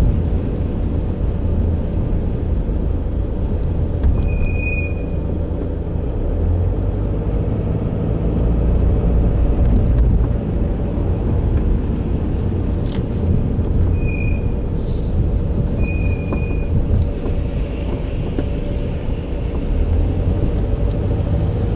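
Steady low vehicle rumble, as of a car driving, with a faint steady hum above it. A few short high chirps come briefly, once about four seconds in and twice later on.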